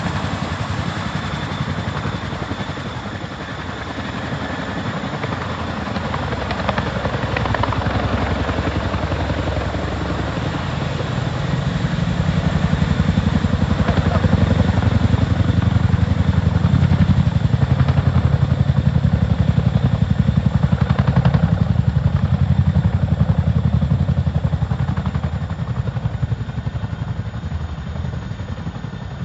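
Boeing CH-47D Chinook tandem-rotor helicopter, the rapid, steady chop of its rotor blades over a deep low rumble. It grows louder about twelve seconds in and eases off near the end.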